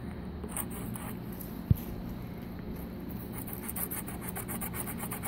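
Steady low rumble with one sharp click, then quick repeated scratching strokes: a lump of coal being scraped across a surface to draw with it.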